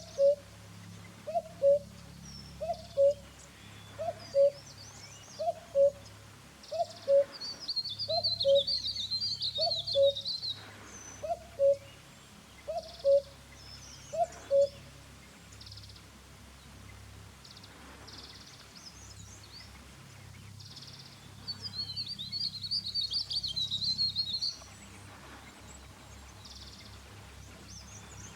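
Wild birds calling: a low two-part call repeated about every 1.4 seconds through the first half, and two bursts of high, rapid chattering lasting two to three seconds each, one about eight seconds in and one about twenty-two seconds in.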